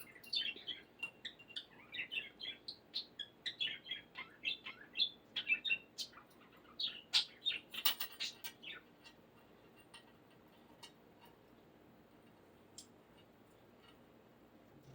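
Budgerigar chirping and chattering in quick runs of short high calls, stopping about nine seconds in; after that only a few faint ticks.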